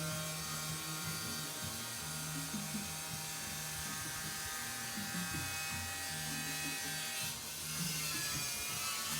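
Lathe running steadily while turning a roller shaft, a constant electric motor hum with a thin high whine over it.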